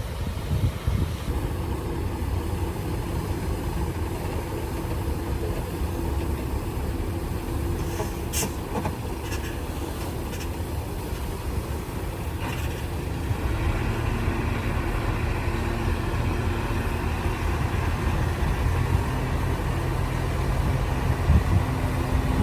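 Heavy diesel earthmoving machinery running steadily: a low engine rumble with a steady hum. There are a few short clicks around the middle, and the engine gets a little louder just past halfway.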